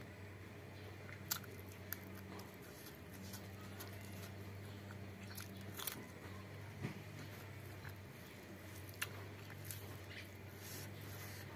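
A person chewing food close to the microphone, with about five short crunchy bites spread through. She is biting into a raw green bean and eating pork intestine stew with rice.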